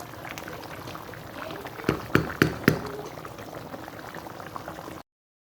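Rice boiling hard in its cooking water in a pot, a steady bubbling with many small pops, the water cooking off before the rice goes on dum. A few sharp knocks stand out between about two and three seconds in, and the sound cuts off about five seconds in.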